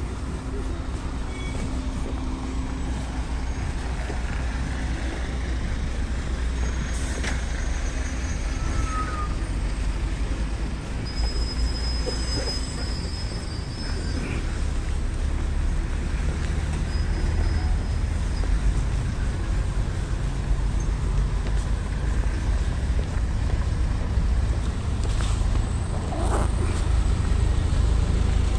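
Steady low rumble of a vehicle, with a few faint high squeaks and clicks over it.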